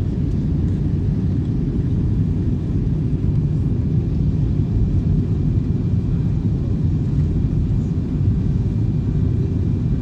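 Airbus A321 airliner's jet engines giving a steady low rumble with no change in level, plus a faint thin whine above it.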